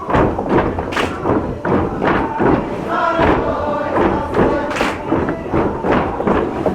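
Many dancers' wooden geta clogs stamping on the wooden floor of a shrine's worship hall, knocking several times a second, with group singing faintly heard through the middle.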